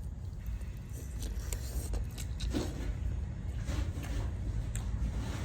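Soft crunches and rustles of someone biting into and chewing garlic parmesan chicken wings, with scattered small clicks, over a steady low rumble.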